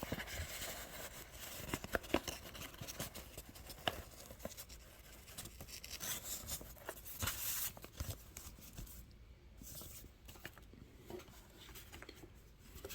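Old paper greeting cards and envelopes being handled: faint, irregular rustling and sliding of paper with scattered small taps, a little louder about seven seconds in.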